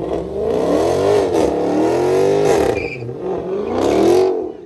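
Car engine being revved hard again and again, its pitch climbing and dropping back about three times.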